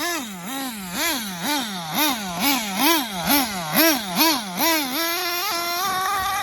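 Dynamite Big Red nitro engine of an XTM Mammoth RC monster truck, revved up and down about twice a second in short bursts. For the last second and a half it holds steady at high revs.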